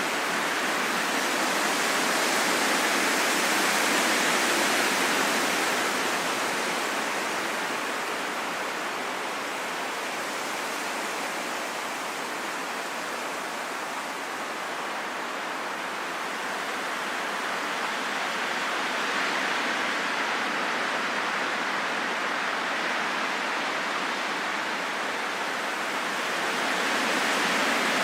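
Steady rain falling in a forest, a dense even hiss that slowly grows and eases in loudness.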